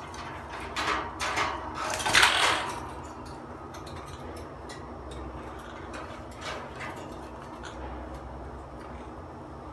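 Wire parrot cage being handled to open its door: a burst of rattling and scraping clicks over about two seconds, loudest just past two seconds in, then only a steady low hum.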